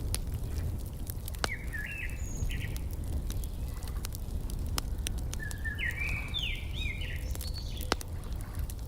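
Wood fire crackling with frequent sharp pops over a steady low rumble. A songbird sings two short chirping phrases, about a second and a half in and again near six seconds.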